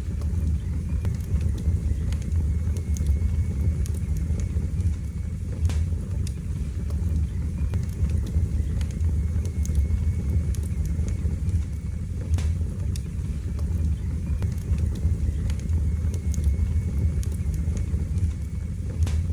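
Wood fire burning in a fireplace: a steady low rumble of flame with scattered sharp crackles and pops at irregular intervals.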